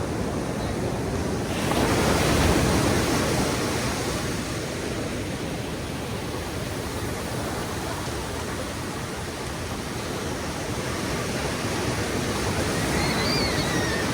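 Ocean surf on a beach: a wave breaks about a second and a half in, its wash fades, and the surf builds again toward the end.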